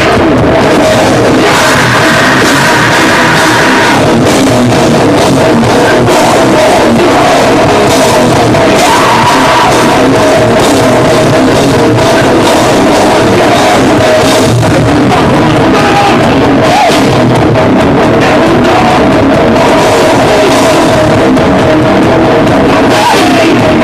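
Live metalcore band playing loud and steady: heavily distorted guitars, bass and fast drums, with shouted vocals over the top. The sound is a distorted audience recording of a club PA.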